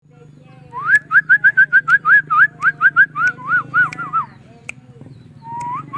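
White-rumped shama singing: a fast run of rising whistled notes, about six a second, slowing into a few arched, falling notes, with a new phrase starting near the end.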